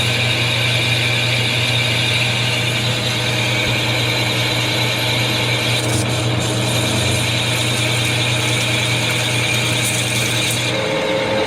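Metal lathe running steadily while a parting tool cuts off a turned part: a constant motor and spindle hum under a harsh, chattering cutting noise.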